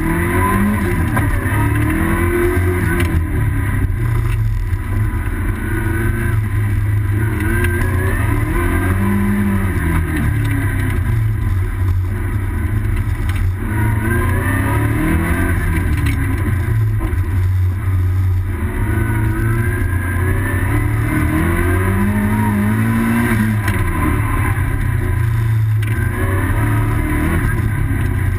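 Car engine heard from inside the cabin, its revs climbing and dropping every few seconds as the car is driven hard through a tight course.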